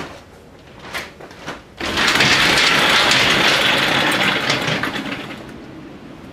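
A few light clicks, then about two seconds in a door is opened and high wind rushes in with a sudden loud rushing noise that eases off near the end.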